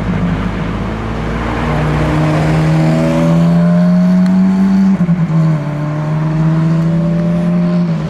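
Car engine accelerating under load, its pitch climbing slowly, dropping at a gear change about five seconds in, then climbing again until another shift at the end.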